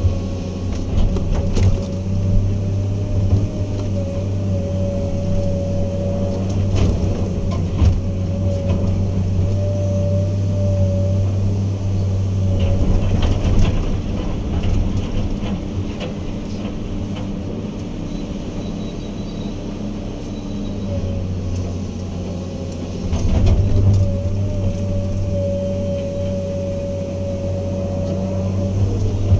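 Heavy earthmoving machine's diesel engine running steadily under work, with a high whine that wavers up and down and scattered clanks and knocks. It gets louder for a moment about 23 seconds in.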